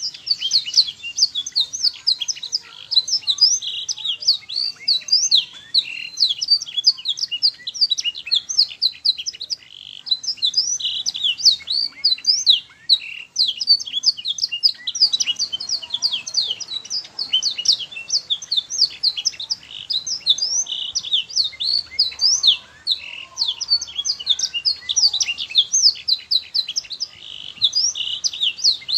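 Domestic canary singing continuously: rapid runs of quick high sweeping notes and trills with barely a pause.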